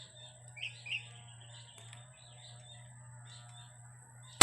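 Small birds chirping in short repeated notes, then right at the end a single sharp, loud crack: an air rifle shot from a tank-fed PCP air gun.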